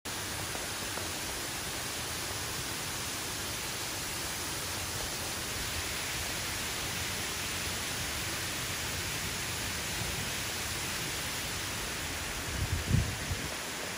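Heavy rain pouring down steadily, a dense even hiss. A few low thumps come near the end.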